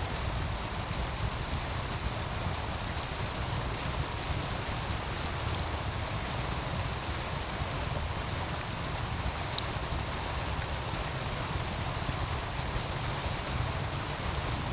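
Wood fire crackling, with scattered sharp pops, over the steady rush of a meltwater stream and a low rumble.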